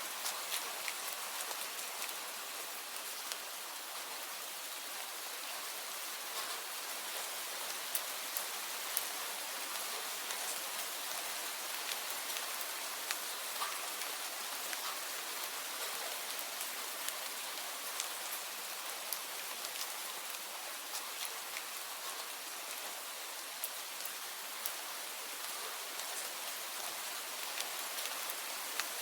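Steady rain falling: an even hiss with many sharp individual drop hits scattered through it.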